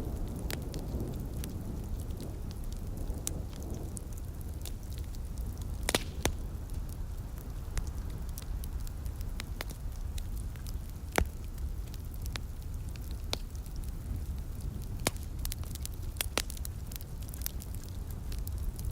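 Wood fire crackling in a fireplace: scattered sharp pops, the loudest about six and eleven seconds in, over a steady low rumble.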